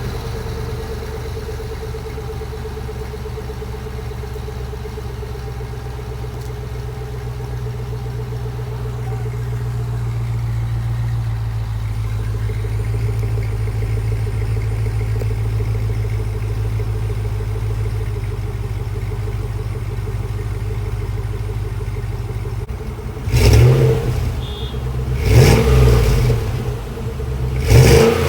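Chevrolet Trailblazer SS's 6.0-litre LS2 V8 on its stock exhaust idling steadily, then revved three times near the end. The stock exhaust note is really tame.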